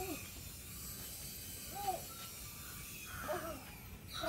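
Small toy remote-control helicopter's electric motor and rotors running with a faint high whine that fades near the end. Short rising-and-falling calls sound about four times over it.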